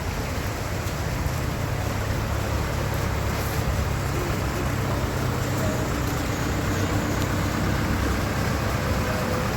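Steady outdoor rumble with a noisy low hum and no clear single event.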